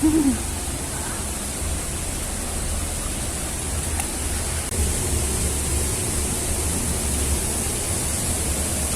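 Steady rushing of falling water from a waterfall, an even hiss with a heavy low rumble underneath.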